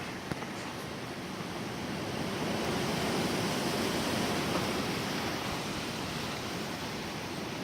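Gusty wind rushing, swelling into a strong gust about two seconds in and easing off again after about five seconds.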